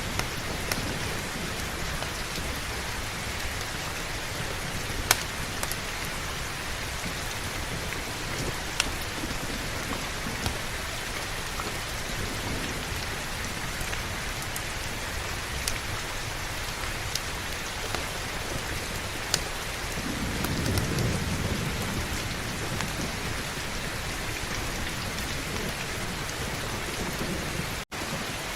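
Heavy rain falling steadily, with a few sharp pops scattered through it and a low rumble of thunder swelling about twenty seconds in. The sound cuts out for an instant near the end.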